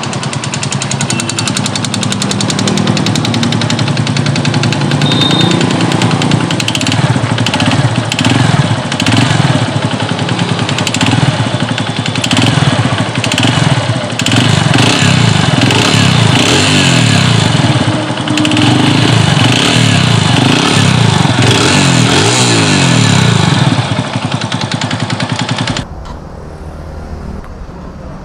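TVS Radeon motorcycle's single-cylinder four-stroke engine running and being revved up and down repeatedly, with a rapid ticking over its note. It stops abruptly near the end.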